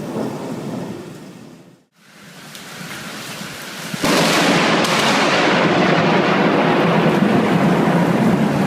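Rain with thunder fading out about two seconds in, then a sudden, loud close thunderclap about four seconds in that carries on as a long rolling rumble over the rain.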